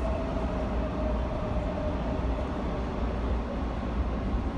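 Steady low rumbling noise, like a vehicle in motion, with a faint steady tone that fades away in the first couple of seconds.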